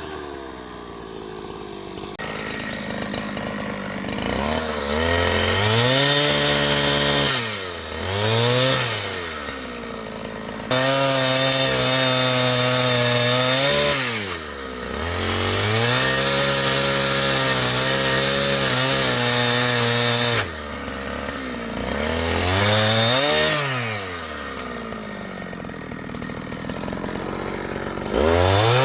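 Two-stroke chainsaw revving up and down again and again, held at high throttle for several seconds at a time while cutting wood, and dropping back toward idle in between.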